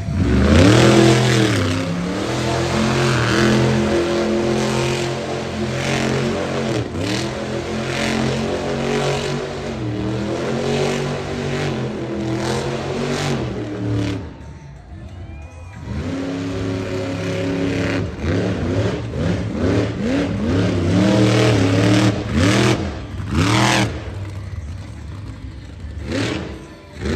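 Monster truck engine revving hard, its pitch climbing and dropping again and again, easing off for a couple of seconds about halfway, then several short sharp blips of the throttle near the end.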